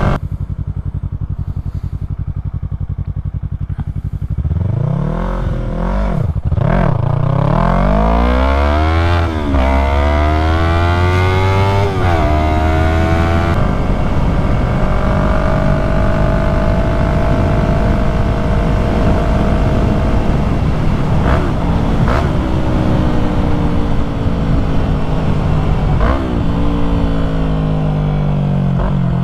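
2020 Yamaha MT-03's parallel-twin engine through an aftermarket full-system exhaust, running low and steady, then accelerating hard through three gear changes: each a rising note that drops at the shift. It then runs at a steady, slowly falling pitch with a few sharp clicks, and the revs fall away near the end.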